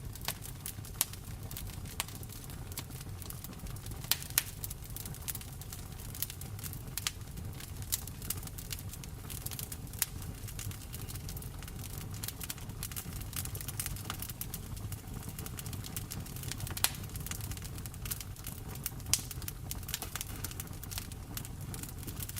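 Wood fire crackling in a fireplace, with frequent sharp pops at irregular intervals, over a steady low rumble and a soft hiss of rain.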